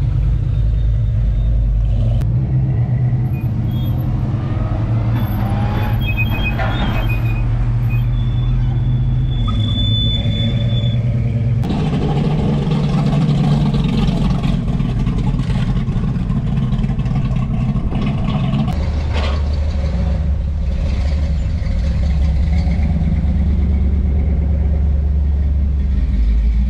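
Car engines rumbling loudly as cars drive past one after another. The engine sound changes about twelve seconds in and again near nineteen seconds as a different car takes over.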